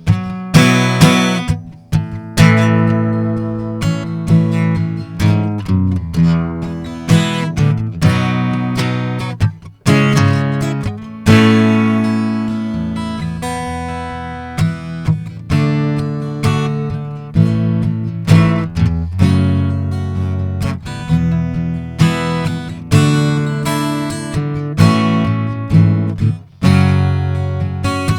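Acoustic guitar strumming chords, each stroke ringing out and decaying before the next, in a folk-style instrumental passage without vocals.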